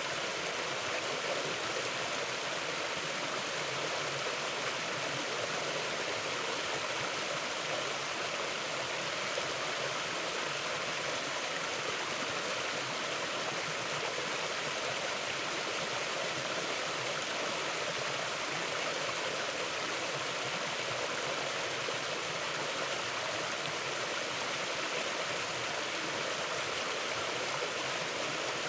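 Mountain river flowing steadily over rocks: an even, constant rush of water.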